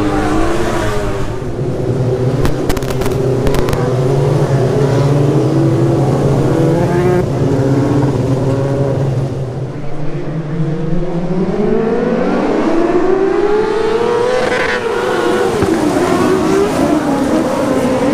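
TQ midget race car engines running on a speedway track. The pitch holds fairly steady at first, then climbs for several seconds in the second half and falls away again.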